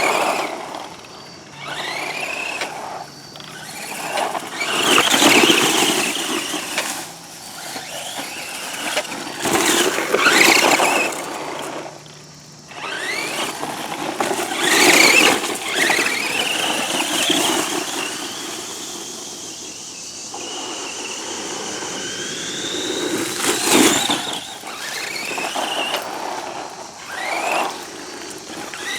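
Redcat Volcano EPX RC monster truck's brushed electric motor and gears whining, rising and falling in pitch as it speeds up and slows, with four louder rushes of noise spread through.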